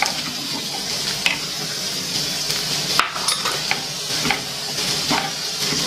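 Chopped onion, garlic, ginger and green chilli sizzling in oil in a frying pan while a wooden spatula stirs them, with irregular taps and scrapes of the spatula against the pan and one sharper knock about three seconds in.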